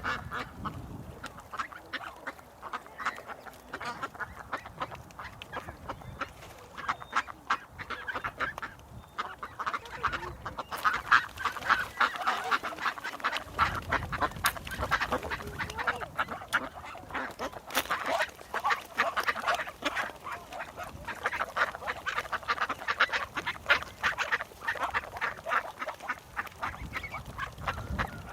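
A group of ducks quacking continuously, many short calls in quick succession overlapping one another.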